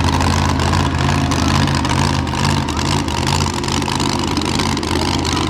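Monster truck engine running steadily at low revs, a deep even drone with no clear revving.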